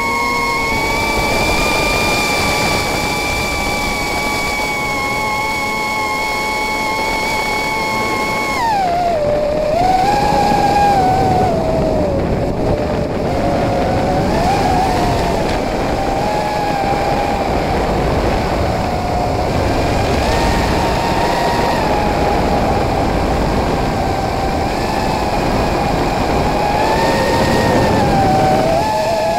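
Racing quadcopter's brushless motors whining, heard through the drone's own onboard camera: a steady high whine that drops in pitch about eight seconds in, then wavers up and down as the throttle changes.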